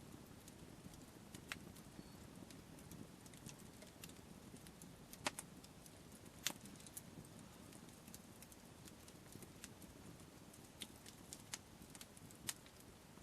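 Wood campfire crackling faintly, with sharp, irregular pops; the two loudest come about five and six and a half seconds in.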